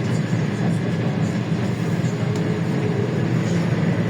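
LiAZ-677M bus under way, its ZIL V8 petrol engine and road noise running steadily, heard from inside the cabin.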